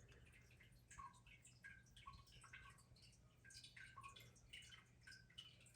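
Near silence: quiet room tone with a faint steady low hum and faint, irregular drip-like ticks, a few each second.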